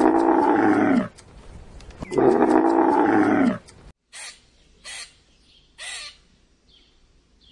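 A large animal giving two long, loud, pitched calls that rise and fall, like roars. After a cut, three short harsh calls follow about a second apart, then faint chirps.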